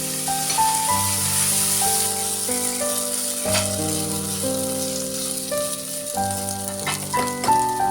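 Food sizzling as it fries in a pan, a steady hiss, with a few sharp utensil clicks, the last ones about seven seconds in. Background music of slow held chords plays over it.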